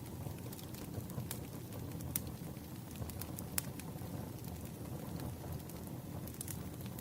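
Wood fire burning: a steady low rumble of burning logs with scattered sharp crackling pops.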